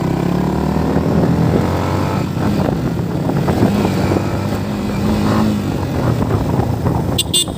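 Motorcycle engine running under way, with a steady rushing noise over it.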